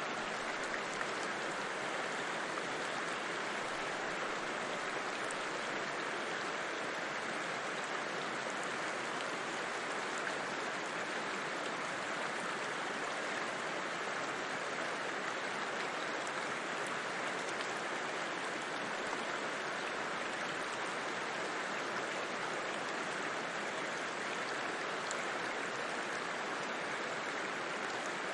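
A river flowing: a steady, unbroken rush of water that keeps the same level throughout.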